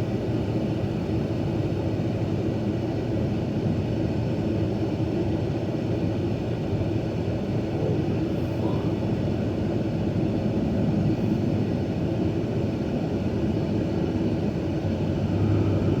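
Steady engine and road drone of a car heard from inside its cabin while driving.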